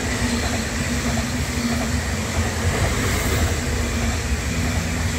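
Electric multiple unit passing close by at speed: a steady rush of wheels on rail with a steady low hum.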